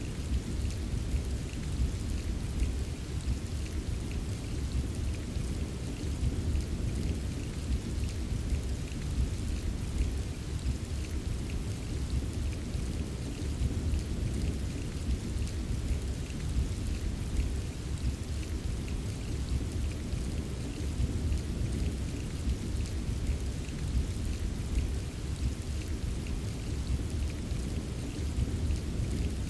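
Steady rain ambience: continuous rainfall with a low, even rumble underneath and faint scattered drop ticks.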